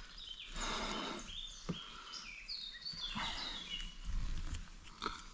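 Small birds chirping in woodland, a run of short high notes throughout, over faint rustling, with a single sharp knock about two seconds in.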